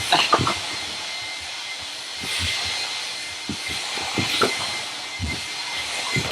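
Handheld hair dryer running steadily, a blowing hiss with a thin high whine, switched off right at the end. Scattered short low sounds come and go underneath.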